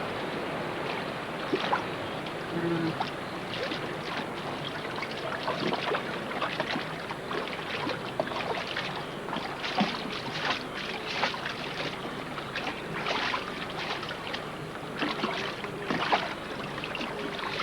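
Fast-flowing floodwater rushing, with many irregular splashes as wildebeest swim and struggle in the current.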